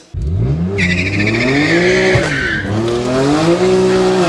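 Modified BMW M2's turbocharged straight-six accelerating hard, its pitch climbing, dipping at a gear change about two seconds in, then climbing again. Tyres squeal through the first half.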